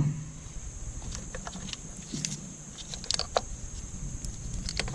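Scattered light clicks and rattles of an engine wiring harness and its plastic connectors being handled and moved aside.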